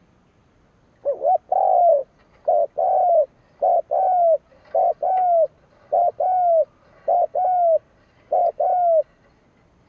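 Spotted dove (chim cu gáy) decoy bird giving the "gù" coo, a call used to provoke wild doves. It makes seven two-part coos about a second apart, each a short note followed by a longer arching coo, starting about a second in and stopping near the end.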